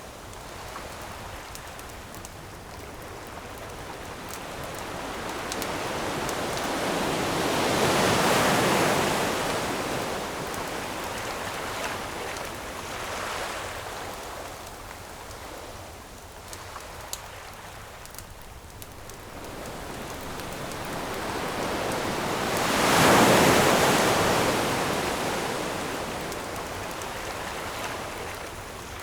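Ocean waves washing onto a shore: a steady surf hiss that swells into two big breaking waves, about eight seconds in and again near the end, with a smaller one between. A few faint, sharp campfire crackles sit over it.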